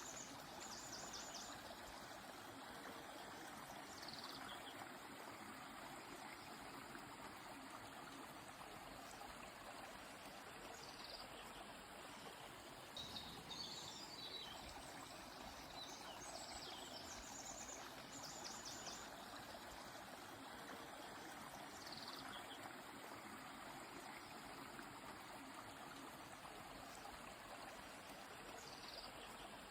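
River water flowing with a steady, faint rush. Small birds call every few seconds over it, with short high chirps and quick trills.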